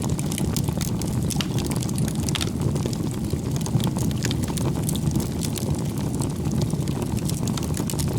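Wood fire burning: a steady low roar of flames with frequent small crackles and pops from the burning firewood.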